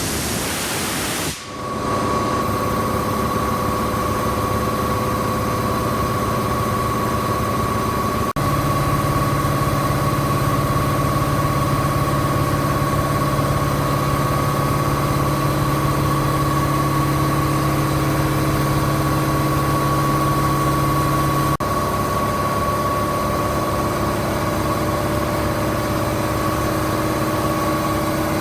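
Atlas Imperial marine diesel engine running steadily, with a steady high whine over the engine's drone. It starts with a second and a half of hiss, and the sound shifts abruptly twice, around 8 and 21 seconds in.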